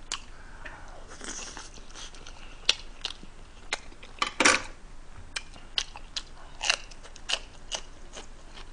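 Close-miked chewing of a mouthful of leftover fried chicken in spicy tteokbokki sauce, with irregular sharp crunching clicks and mouth sounds, the loudest crunch about four and a half seconds in.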